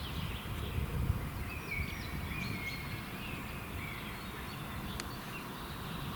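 Outdoor forest ambience: small birds giving short chirps and a few brief whistled notes, over a steady low rumble, with a single sharp click about five seconds in.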